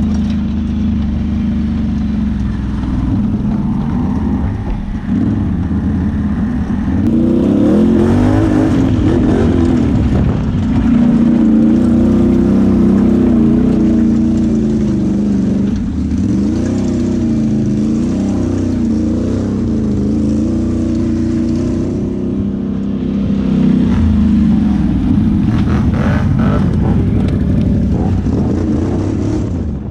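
ATV engine running while riding, its pitch rising and falling as the throttle opens and eases off.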